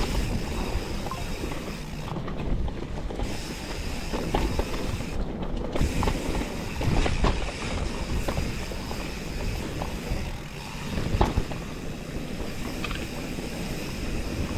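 Mountain bike being ridden on a rough, wet trail: a continuous rumble and rattle, with irregular knocks as the bike goes over the ground.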